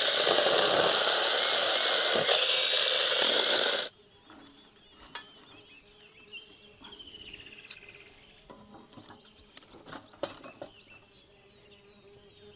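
A loud, steady hiss that cuts off abruptly about four seconds in, followed by quiet outdoor ambience with birds calling in short falling chirp series and a few light clicks and taps.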